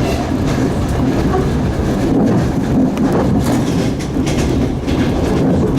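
Passenger train carriage running along the track: a steady low rumble of wheels on rails, with irregular clacks as the wheels pass over rail joints.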